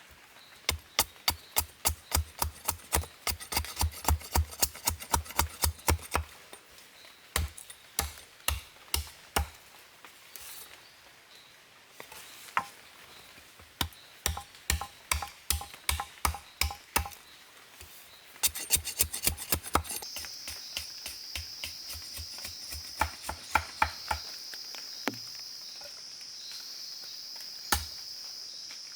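Repeated sharp chopping strikes of a blade into wood, about three or four a second, in several bursts with short pauses between them. A steady high insect buzz, such as cicadas, comes in about two-thirds of the way through.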